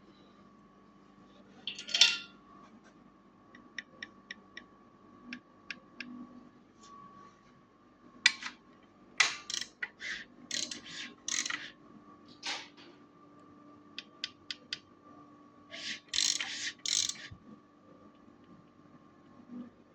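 Scattered light clicks and several short bursts of clatter, over a faint steady hum.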